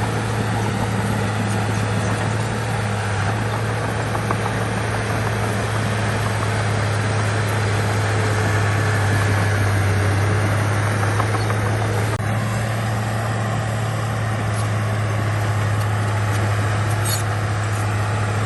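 Heavy earthmoving machine's diesel engine running steadily with a deep, constant drone, a little louder around the middle.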